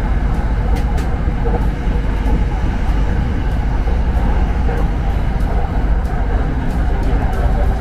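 SRT Red Line electric commuter train running, heard from inside the carriage: a steady low rumble with faint ticks.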